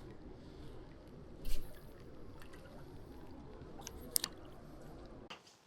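Water sloshing and splashing at the water's edge, with a louder splash about one and a half seconds in and a sharp click near four seconds.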